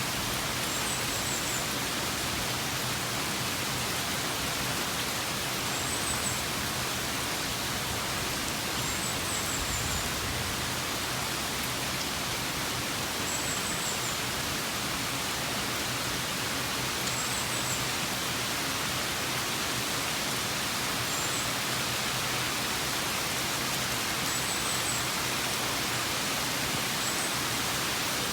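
Steady rainfall, an even hiss of rain on surfaces. A faint, short, high chirp recurs every three to four seconds.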